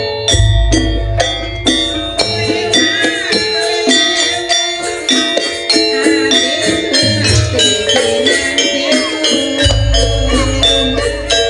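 Live Banyuwangi traditional ensemble music: struck pitched percussion and drums playing continuously, with a steady beat and rattling percussion.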